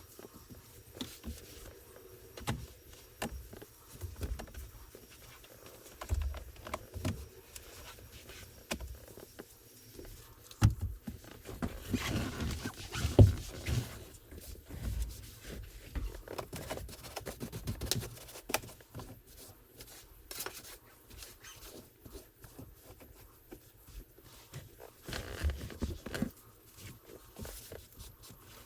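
Hands-on car detailing work: irregular taps, knocks and rustling as tools, bottles and cloths are handled against the vehicle, with a louder cluster of knocks about halfway through.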